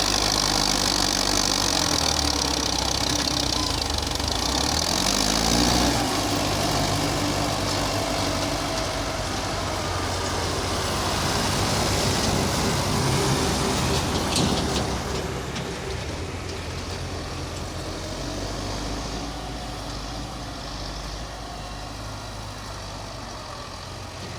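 Belarus tractor's diesel engine running steadily, its pitch shifting in the first few seconds and its level dropping about fifteen seconds in.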